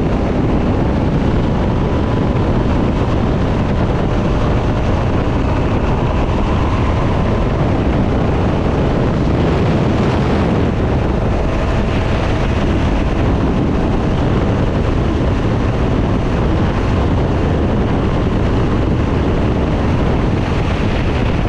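Steady wind noise on the microphone at road speed, with a vehicle engine droning underneath at a constant pitch.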